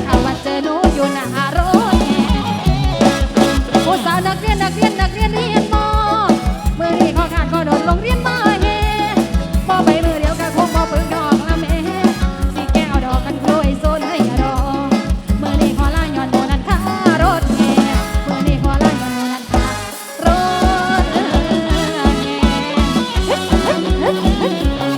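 Isan rot hae band music played loud through a sound truck's PA: a fast, steady drum-kit beat under a wavering sung or played melody, with a brief drop in the music about four-fifths of the way through.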